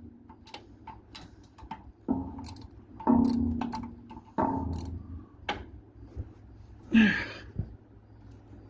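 Socket ratchet clicking in short irregular runs as it is worked on a tight starter bolt, with a louder brief sound about seven seconds in.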